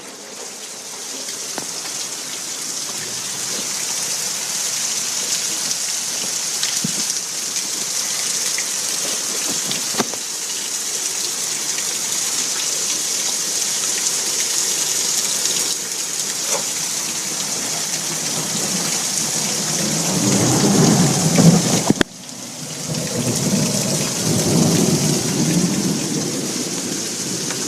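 Heavy rain falling steadily, with two rolls of thunder rumbling in about twenty seconds in; the first is the loudest and breaks off suddenly.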